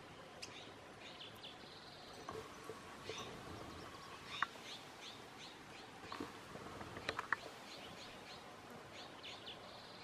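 Faint, scattered short bird chip notes over a steady outdoor hiss. There is a sharp click about four seconds in and a quick cluster of clicks around seven seconds.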